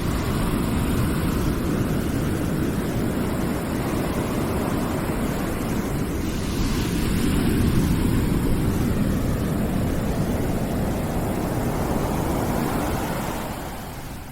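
Steady rushing noise played as calming background noise, deep and full in the low range, dropping in level near the end.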